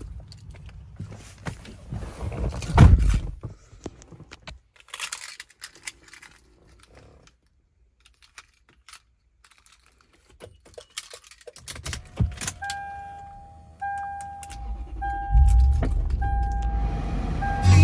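Keys jangling with clicks and knocks around a 2004 Lexus GX470, then its warning chime beeping steadily about once a second. Over the last few seconds the truck's 4.7-litre V8 cranks and starts, adding a low rumble under the chime.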